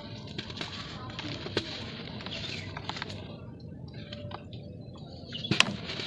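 Lumps of dry red dirt crumbling and cracking, a scattering of small crackles with a few louder sharp cracks near the end.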